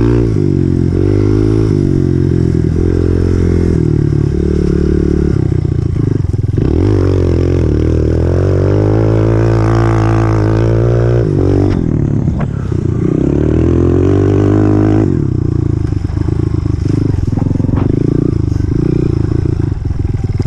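Honda CRF125F dirt bike's single-cylinder four-stroke engine running under load as it is ridden. Its pitch rises and falls repeatedly with the throttle.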